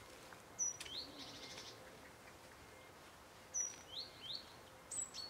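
Small songbirds chirping in two short bursts, each a high note followed by quick rising chirps, the first about half a second in and the second past three and a half seconds.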